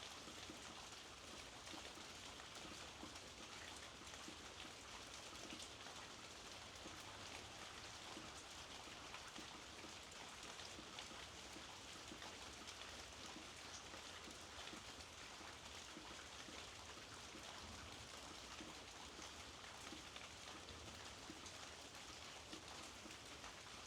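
Faint, steady rainfall with a fine patter of drops, unchanging throughout.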